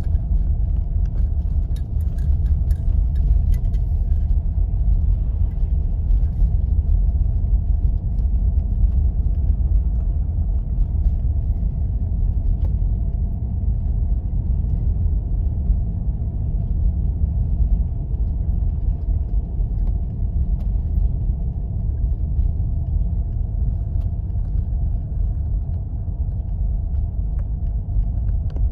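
Vehicle driving on snowy roads: a steady low rumble of engine and tyres, with a faint steady hum above it and a few faint clicks in the first few seconds.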